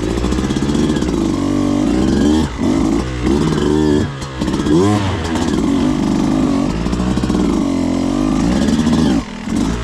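Beta 200RR two-stroke dirt bike engine being ridden, its pitch climbing and falling over and over with the throttle, with brief drops off the throttle a few times.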